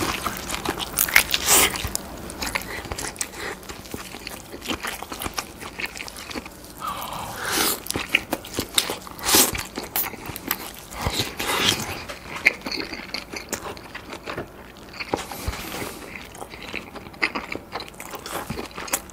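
Close-miked biting and chewing of grilled lobster tail meat under melted raclette cheese: wet, sticky mouth sounds with irregular sharp crunchy clicks, the loudest bites in the first couple of seconds.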